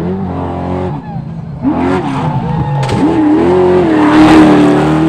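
Off-road Trophy Truck race engine revving up and down as the truck passes, loudest about four seconds in, with a rushing noise at that point.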